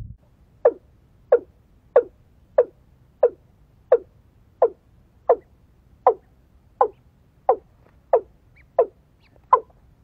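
A bird calling over and over, a short falling note repeated about fourteen times at an even pace of roughly one every two-thirds of a second.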